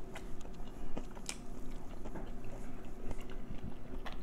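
Close-miked chewing of fried chicken: soft wet smacks and small clicks at an irregular pace, with a faint steady low hum underneath.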